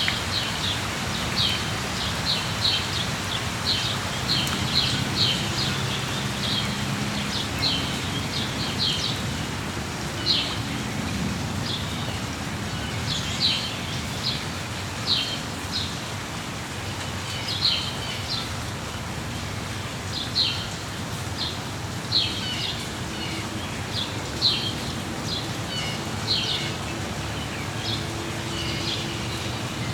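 Steady rain with birds chirping over it: short, high chirps repeating about once a second, sometimes two or three close together.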